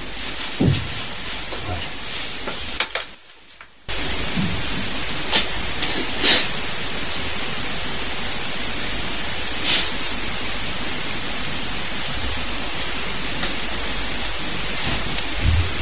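Steady hiss, broken by a sudden dropout lasting about a second some three seconds in, with a few faint knocks.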